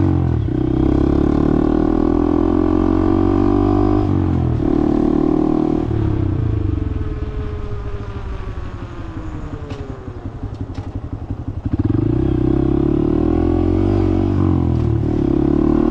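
Motorcycle engine running at a steady cruising speed, then easing off with its pitch falling for several seconds. About twelve seconds in it picks up again sharply as the throttle opens.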